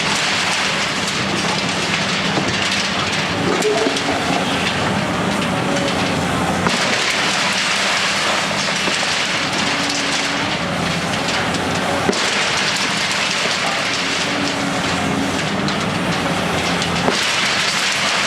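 Heavy demolition machinery working: a steady engine hum under a continuous crackling, rattling noise, with a few sharp clicks.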